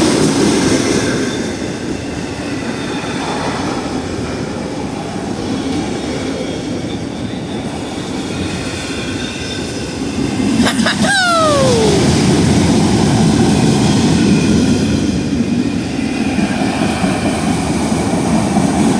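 A CSX freight train of auto-rack cars rolling past close by: a steady rumble and rattle of wheels on rails. About eleven seconds in, a short falling whine cuts through and the rumble grows louder.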